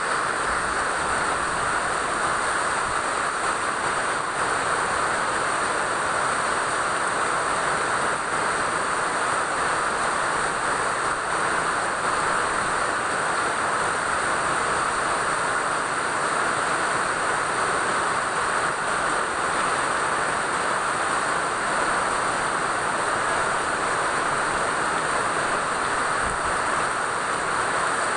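Steady rain falling, an even hiss that stays level throughout.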